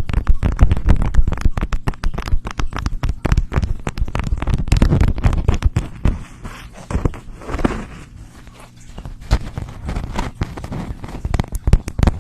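Rapid, dense crackling and clicking made close to the microphone, thinning out after about six seconds.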